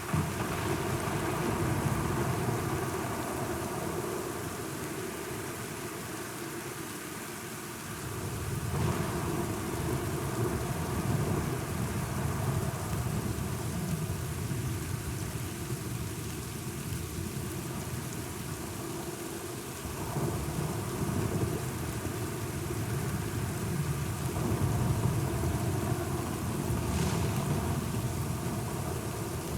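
Steady rain with thunder rolling in low rumbles that swell up three times: at the start, about nine seconds in, and about twenty seconds in.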